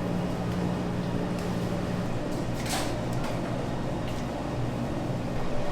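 Steady machine hum of bakery equipment running, with a brief hiss and a few light clicks about midway through.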